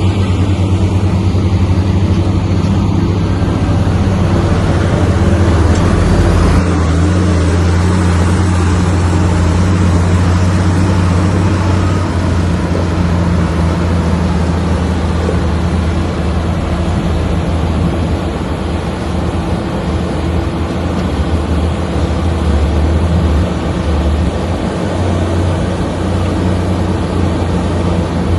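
Komatsu bulldozer's diesel engine running steadily under load, a deep continuous drone.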